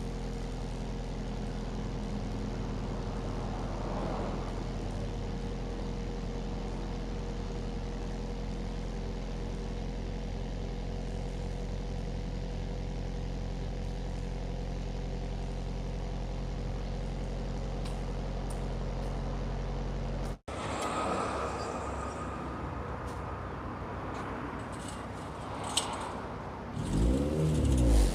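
Four-cylinder car engine exhaling through Greddy headers, a test pipe and a Yonaka cat-back exhaust, idling steadily. After a sudden cut about two-thirds of the way in, it is revved, the pitch rising sharply near the end.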